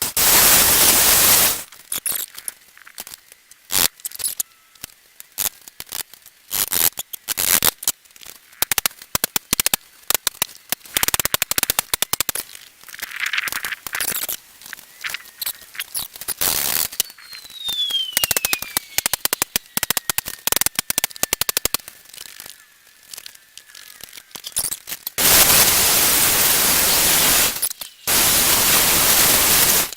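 Many sharp clicks and snaps of wire hardware cloth being cut with snips and handled, with stretches of loud steady hissing noise at the start and again near the end.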